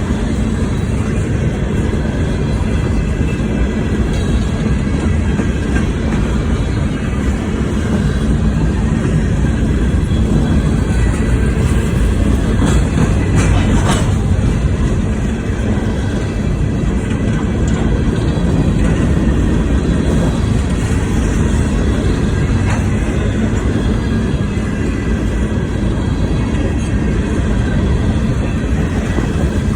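CSX freight train rolling past, a steady loud rumble of wheels on rail with a few short clanks about halfway through.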